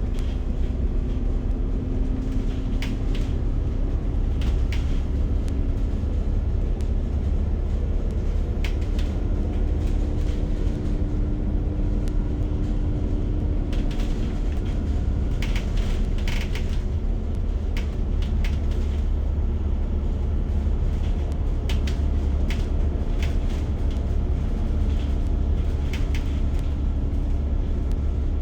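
Steady low rumble of a moving passenger vehicle heard from inside, with a faint humming tone that drifts a little in pitch and scattered light rattles and clicks.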